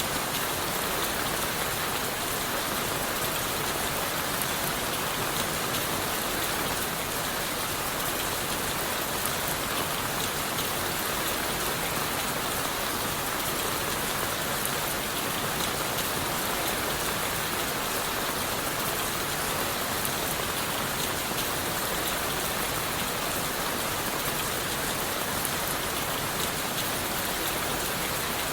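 Steady rain falling on leaves and wood, an even hiss of rainfall with many fine, close drop patters.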